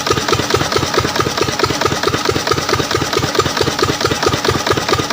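14 HP diesel engine of an irrigation water pump set running steadily, with an even rapid beat of about seven firing pulses a second.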